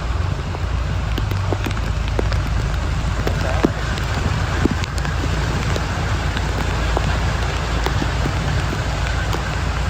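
Heavy rain falling steadily, with scattered sharp drops ticking close by, over a constant low rumble.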